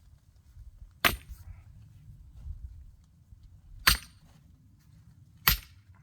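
An axe striking a knotty, still-green oak log, three sharp blows about a second, four seconds and five and a half seconds in.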